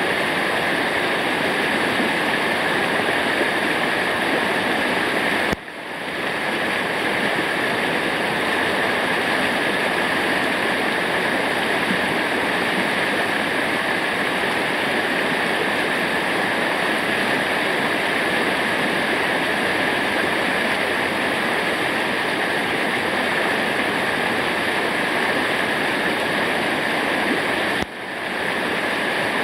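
Waterfall: a steady rush of falling water, broken by two brief drops in level, about five seconds in and near the end.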